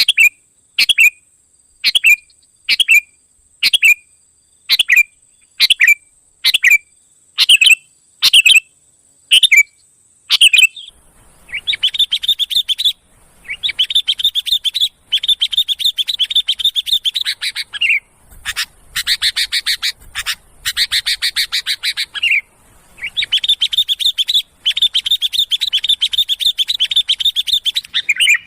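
Sooty-headed bulbul (kutilang) calling: at first one short sharp call about once a second, then, about ten seconds in, long fast chattering runs of notes, several in a row with brief gaps between them.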